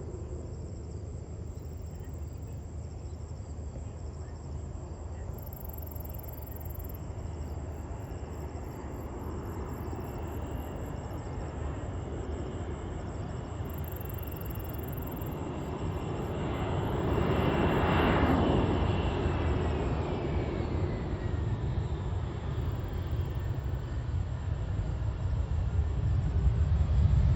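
Airliner engines growing louder as the plane passes, loudest about eighteen seconds in, with an engine whine that falls in pitch as it goes by. Engine noise starts rising again near the end.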